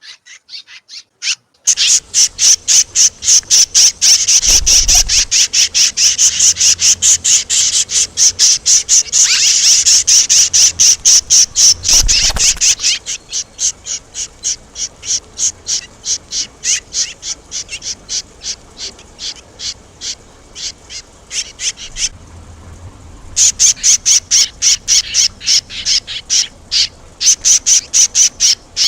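Red-rumped swallows calling in a fast, steady run of high chirps, several a second, with a short break a little before the end. There are two low bumps along the way.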